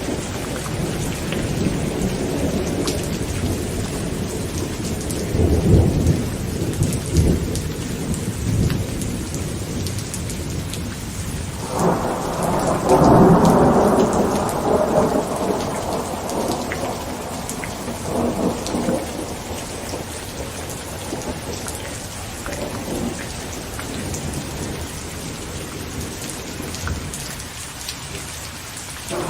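Heavy rain falling on a tent, with rolling thunder: low rumbles in the first few seconds, then a sudden loud thunderclap about twelve seconds in that rumbles away over several seconds, and another clap beginning at the very end.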